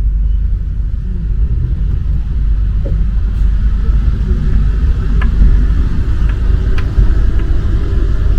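Rubber-tyred MP 05 metro train running between stations, a loud steady low rumble with a few light ticks a little past halfway.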